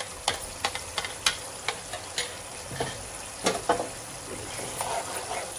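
Mutton mince frying and bubbling in a nonstick pan, a steady sizzle with scattered sharp clicks and a few louder knocks about three and a half seconds in.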